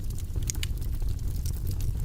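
Wood fire burning in a fireplace: scattered crackles and pops over a low, steady rumble of the flames, with a louder pop about half a second in.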